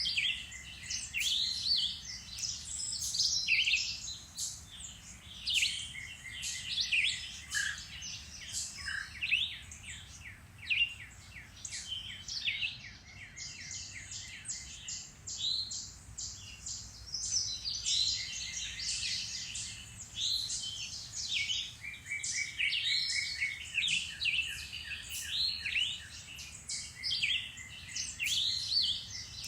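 Several songbirds singing at once, overlapping chirps, whistles and trills, with a short lull about halfway through.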